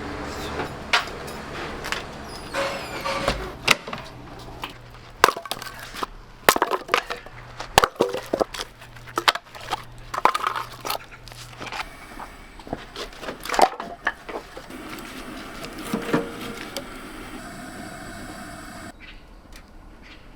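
A run of irregular knocks, clinks and clatters of things being handled and set down, with a faint low hum in the middle stretch.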